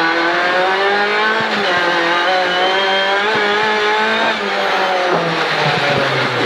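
Rally car engine under hard acceleration, heard from inside the cabin: its note climbs steadily, then drops in steps after about four seconds as the car shifts up. A few short knocks come through, with tyre noise on the dirt.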